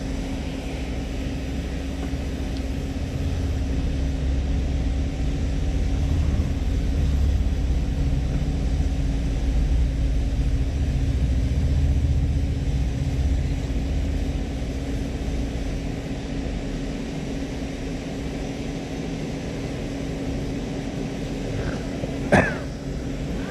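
Tractor engine running close by as it manoeuvres, a steady low hum with a deeper rumble that swells and eases off. A brief sharp squeak cuts in near the end.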